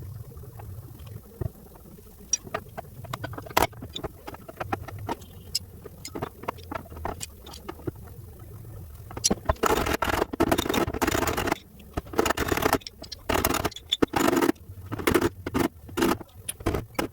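Hand-tool work on a fender: scattered sharp taps and clicks, then from about nine seconds in, repeated bursts of rough scraping strokes.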